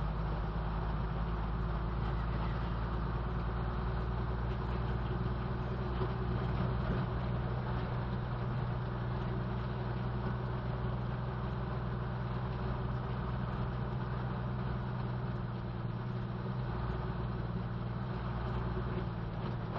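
Old BMC truck's engine running steadily with a constant low hum, its note hardly changing.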